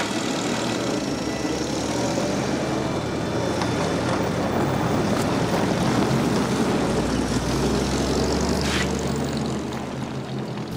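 Engine of a 1930s-style sedan running as the car drives off, a steady drone that grows louder toward the middle and eases near the end.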